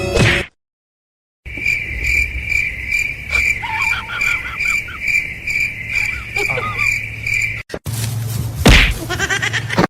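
A high-pitched chirping that pulses steadily about two to three times a second, then breaks off and gives way to a single loud thud near the end.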